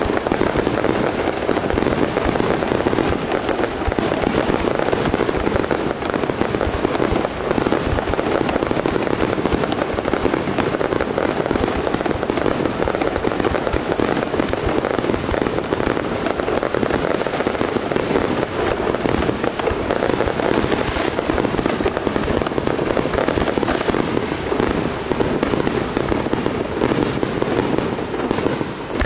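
Fireworks barrage: aerial shells bursting in rapid succession with continuous crackling, the bursts running together without a break.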